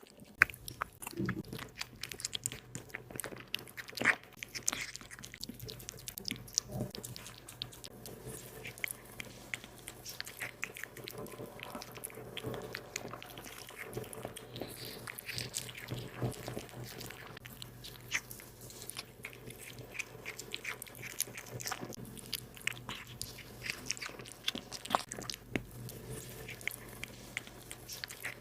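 A cat eating pieces of beef and shark, chewing and biting with many short irregular clicks, over a low steady hum.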